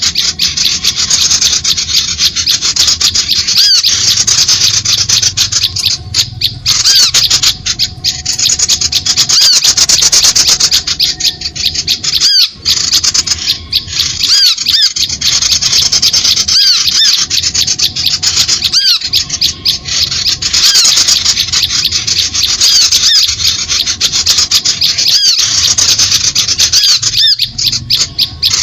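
A dense, unbroken mass of harsh, scratchy chattering and rapid high chirps from small birds. It is a bird-lure (pikat) call played to draw birds in to birdlime sticks.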